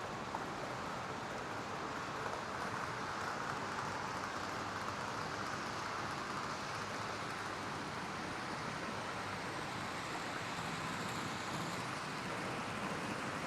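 Steady whirring hiss of an indoor model railway hall, with small-scale model trains running on the layout's track. No single sound stands out.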